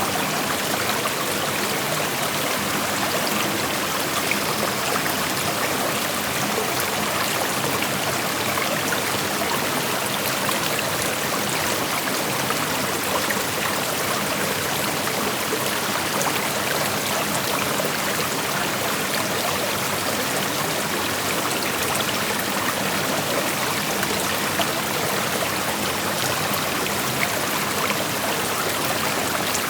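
A shallow creek flowing over rocks: steady rushing and trickling water, an even hiss with no breaks.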